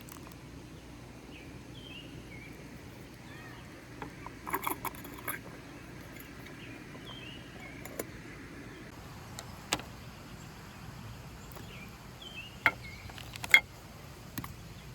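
Scattered clicks and knocks of camp cookware being handled: a little cluster a few seconds in, and the sharpest knocks near the end. Faint bird chirps over a steady low background rush.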